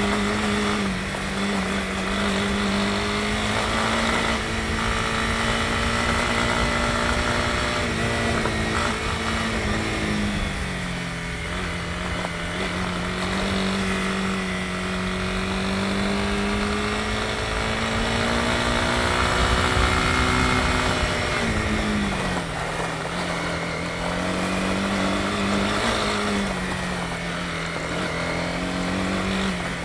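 Honda CB250R's single-cylinder engine running while riding, its pitch rising and falling gently with the throttle and dropping clearly twice, about a third and two-thirds of the way through. Steady wind and road noise run under it.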